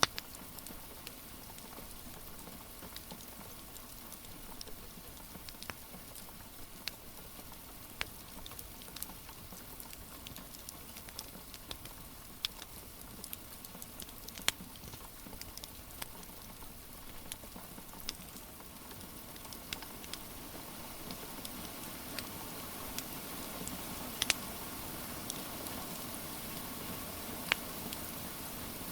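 Steady rain hiss with irregular sharp pops and crackles from a wood fire burning in a fireplace, growing a little louder in the second half.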